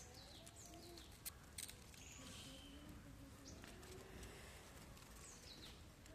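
Faint bird chirps: a few short, high calls that sweep downward in pitch, about a second in and again near the end, over a quiet background.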